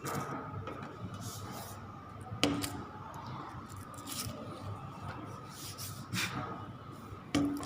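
Handwriting: short scratchy writing strokes, with a couple of sharp taps, one about two and a half seconds in and one near the end.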